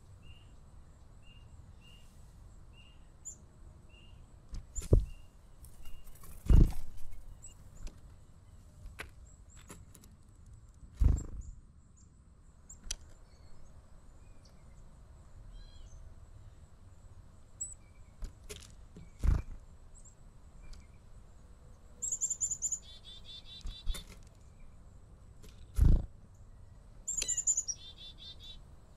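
Small birds chirping and calling, with two quick runs of high notes in the second half. Five loud, short, low thumps are spread through, louder than the calls.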